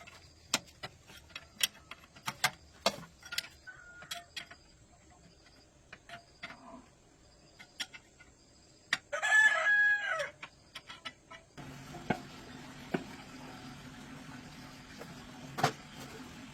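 A rooster crows once, about nine seconds in, over scattered light clicks and taps. A steady low hum starts shortly after the crow.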